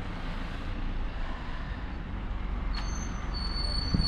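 Wakefield free city bus running at the stop with a steady low engine rumble; a click comes just before three seconds in, then a high steady whine.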